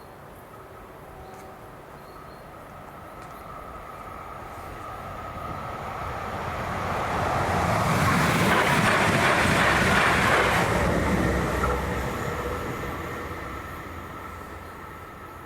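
A train passes over the level crossing. It rises out of the distance, is loudest about eight to eleven seconds in, then fades as it goes away. The crossing's ZV01 electronic warning bell rings steadily throughout.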